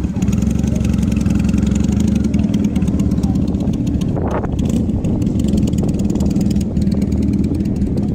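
Motorcycle engine idling steadily, with a short rise and fall in pitch about four seconds in, like a quick blip of the throttle.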